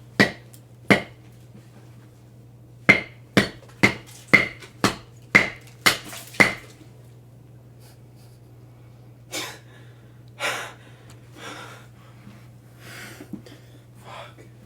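Ten sharp hammer blows on a hard block, each with a short ringing tone. There are two single strikes, then a steady run of eight at about two a second. After that comes heavy, tired breathing from the effort of swinging.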